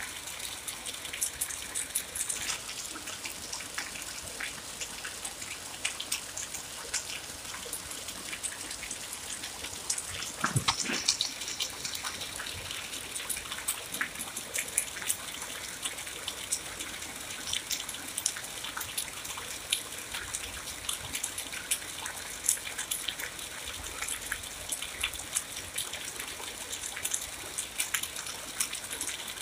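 Steady rain with many individual drops striking close by, heard as a dense crackle over an even hiss. One louder, deeper splash comes about ten seconds in.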